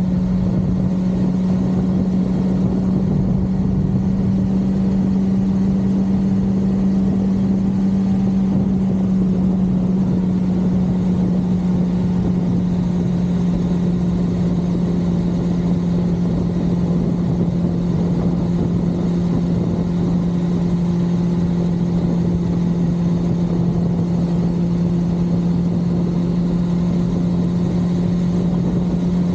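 1982 Suzuki GS550L's air-cooled inline-four engine running at a steady cruising speed, its note holding almost constant, with a low rumble of wind and road underneath.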